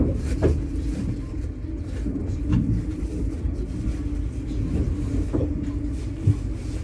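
Running noise inside a 25T passenger coach: a steady low rumble with a constant hum and a few short knocks.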